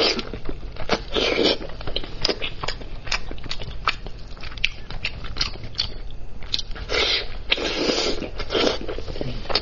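A person chewing and biting spicy lamb's head meat, with a run of wet smacking and clicking mouth sounds. Louder, fuller bites come about a second in and again toward the end.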